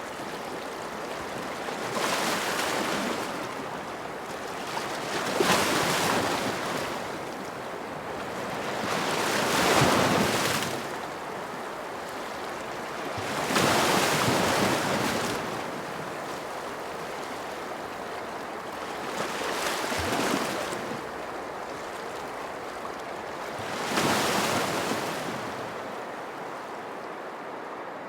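Ocean surf: waves breaking and washing in six surges roughly four seconds apart, over a steady hiss of water between them.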